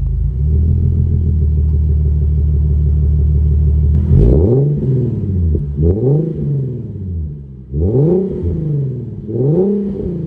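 Infiniti QX SUV's V6 engine through its new aftermarket exhaust: it idles steadily, then about four seconds in it is revved four times in short blips, each rising and dropping back.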